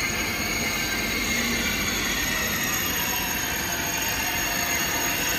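OUIGO double-deck TGV high-speed train rolling slowly alongside the platform: a steady running noise of wheels and traction equipment.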